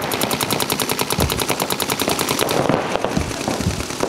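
Electronic paintball markers firing a rapid, even stream of shots, about a dozen a second. The stream stops about two and a half seconds in, and scattered single shots follow.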